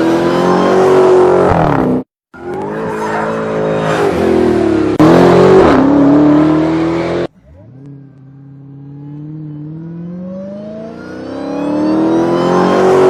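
Dodge Challenger SRT Hellcat Redeye's supercharged V8 at high revs, in several spliced-together takes with abrupt cuts about 2 and 7 seconds in. In the last part the engine starts lower and its pitch climbs steadily as it accelerates, with a high whine rising over it.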